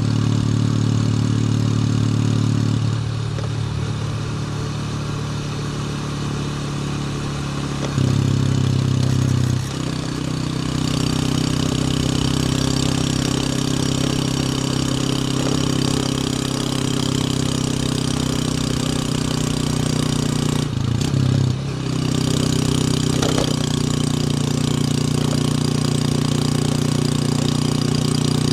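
Motorcycle engine running while riding: a steady note whose pitch steps up or down several times, with a brief dip and break about 21 seconds in.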